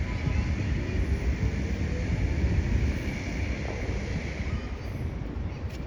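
Downtown city street ambience: a steady low rumble of traffic with wind buffeting the microphone, and a short click near the end.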